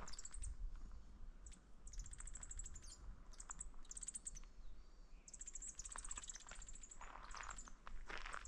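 Small forest birds singing in short bursts of fast, high trills, several in a row, with faint footsteps on the path coming in near the end.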